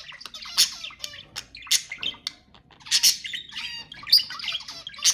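Budgerigars chattering and warbling, broken by loud sharp chirps about once a second.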